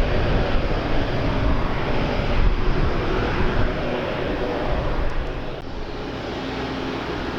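Aircraft engine noise from a passing airliner, steady and loud, with gusty wind rumbling on the microphone. It eases slightly a little past halfway through.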